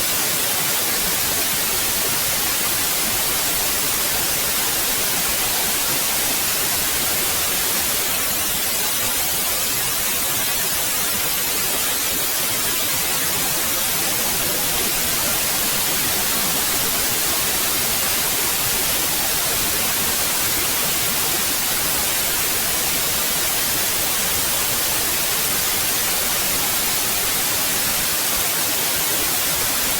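Steady white noise: an even hiss with no change in level or pitch.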